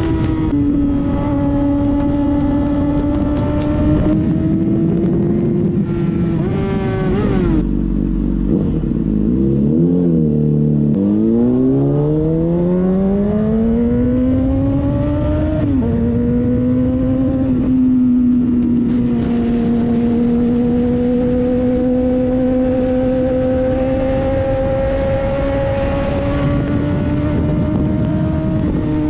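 2007 Honda CBR600RR inline-four running through a MIVV aftermarket exhaust, under way. The engine note holds steady, falls away about seven seconds in, then climbs smoothly under acceleration to a gear change near sixteen seconds, and holds steady again. Wind noise on the microphone runs underneath.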